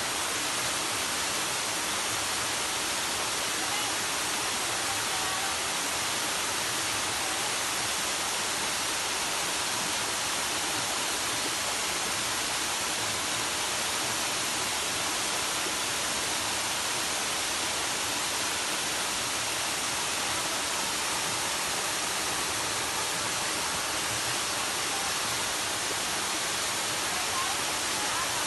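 Waterfall: water pouring down in a steady, unbroken rushing hiss.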